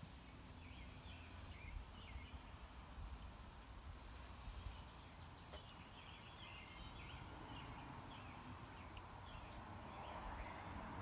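Faint chirping calls, like distant birds, come in quick short phrases over a steady low hum, with a couple of light clicks.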